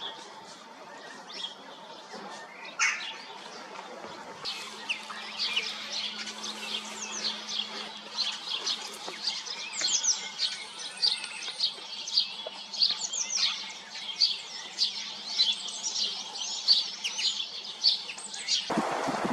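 Songbirds chirping: a few scattered high calls at first, then from about four seconds in a dense, rapid chatter of high chirps. Near the end it cuts off abruptly and wind noise on the microphone takes over.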